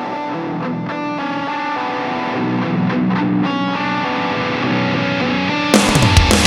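Electric guitar intro with effects, picked notes building steadily louder. Near the end the full band comes in with a sudden loud hit, heading into heavy rock.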